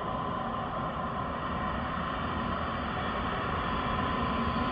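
An ÖBB electric locomotive hauling a freight train, approaching from a distance: a steady rumble that grows slowly louder, with a thin steady whine.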